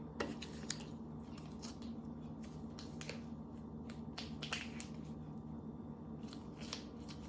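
Faint scattered clicks, rustles and squishes of gingerbread pieces and icing being handled, over a steady low hum.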